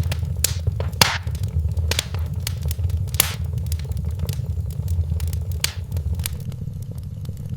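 Wood fire in a fireplace crackling, with irregular sharp pops over a steady low rumble. The loudest pops come about a second in and again around three seconds in.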